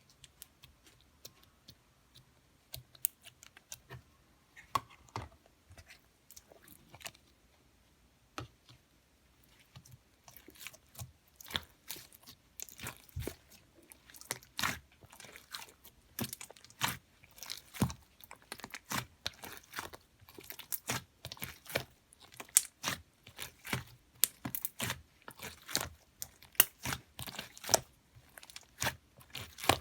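Slime being squeezed and pressed by hand, making wet clicks and pops. The clicks are sparse at first, then quick and almost continuous from about ten seconds in.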